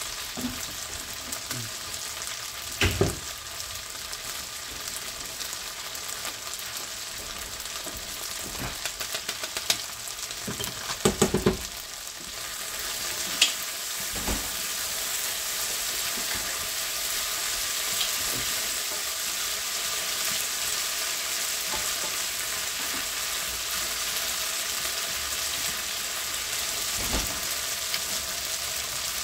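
Gnocchi pan-frying in butter in a skillet, a steady sizzle that gets louder about halfway through. A few brief knocks and clatters as it is stirred.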